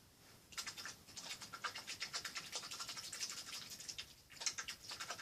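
Paintbrush scrubbing and dabbing on canvas in quick, rapid strokes, starting about half a second in.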